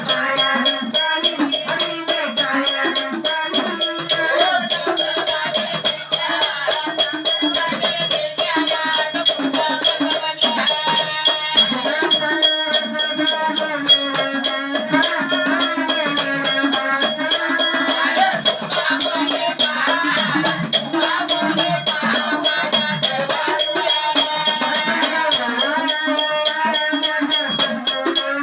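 Marathi devotional aarti song: a singer's voice over fast, rattling percussion and a steady held drone, continuing at an even level.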